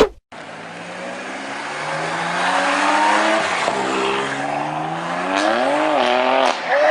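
A car engine accelerating hard, its pitch climbing steadily, dipping briefly about halfway through, then rising sharply and falling off near the end, over a rush of road and wind noise.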